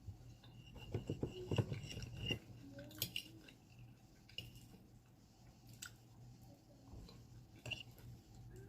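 Faint close-up chewing and mouth sounds of someone eating a baked potato, with scattered light clicks.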